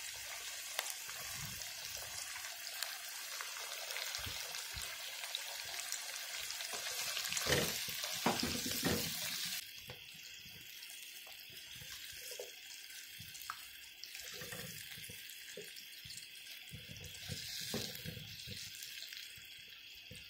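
Chicken and yogurt sizzling in hot oil in a frying pan, with a few stirring strokes about seven to nine seconds in. About ten seconds in the sizzle drops suddenly to a softer, steady sizzle with occasional small pops.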